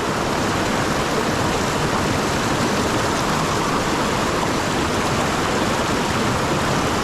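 Mountain stream water rushing, a steady, even rush with no breaks.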